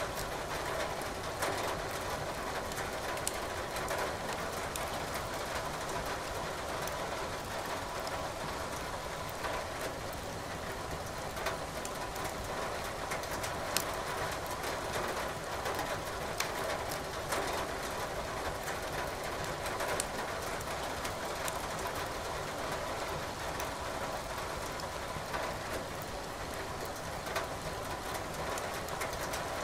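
Firewood crackling in a fireplace, with irregular sharp pops, over a steady hiss of rain.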